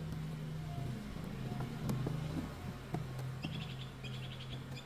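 A steady low hum, with a small bird chirping in rapid trills from about three and a half seconds in, and a few light knocks.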